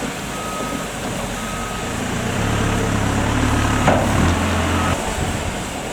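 Vehicle reversing alarm beeping, short single-pitch beeps about once a second, over a low engine rumble that swells in the middle, with one sharp knock about four seconds in.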